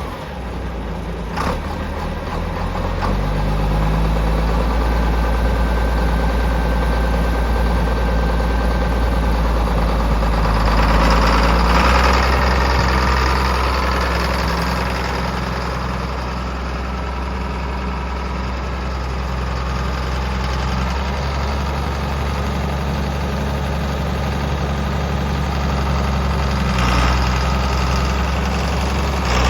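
John Deere 4455 tractor's six-cylinder turbocharged diesel engine running steadily near idle, its pitch shifting a few times, with a louder stretch about eleven seconds in.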